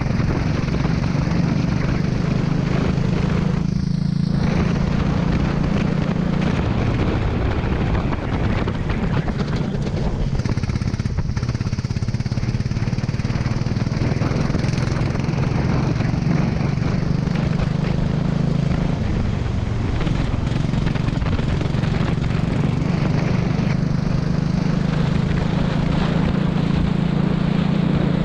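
Kart engine running hard at steady high revs, its note dropping briefly a few times and picking up again, over a steady rushing noise.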